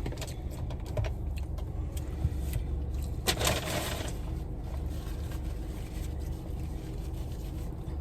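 Steady low hum of a car cabin, with scattered small clicks and a brief rustle about three seconds in.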